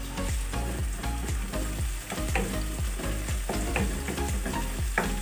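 Chopped onions and freshly added ginger-garlic paste sizzling in hot oil in a nonstick pan while a wooden spatula stirs them. A few sharp scrapes and knocks of the spatula against the pan break through the steady frying hiss.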